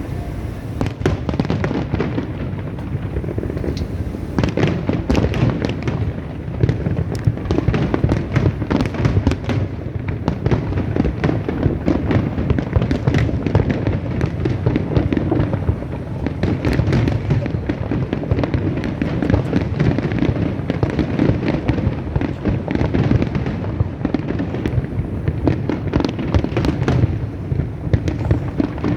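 A fireworks display going off without a pause: dense, rapid bangs and crackles over a heavy, continuous rumble of booming shells.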